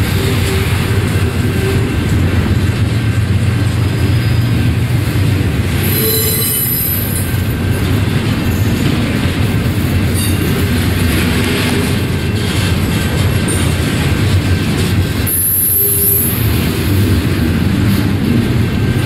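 Intermodal freight train's container well cars rolling past at close range, a steady rumble of steel wheels on rail. Brief high-pitched wheel squeals come about six seconds in and again about fifteen seconds in.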